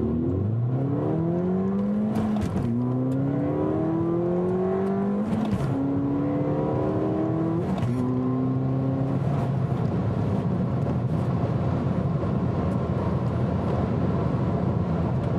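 The 2014 Ford Fiesta ST's 1.6-liter turbocharged EcoBoost four-cylinder accelerates hard from a standstill on a 0-60 mph run. Its pitch climbs in four rising sweeps, with a quick drop at each of three upshifts of the six-speed manual. After about nine seconds it settles into a steady drone with road noise.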